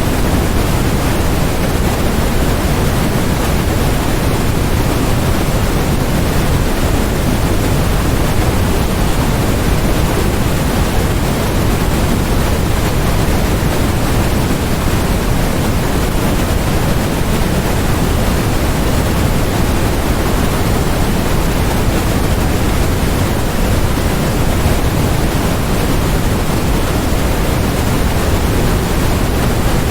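Steady generated noise, an even, unchanging hiss that is heavier in the low end than in the highs.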